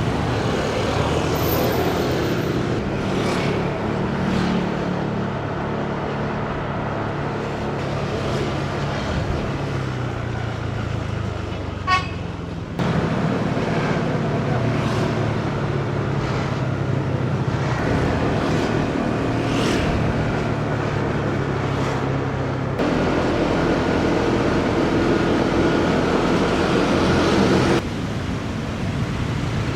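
Motorcycle engine running steadily in city traffic, with road and traffic noise around it. A short horn beep sounds about twelve seconds in.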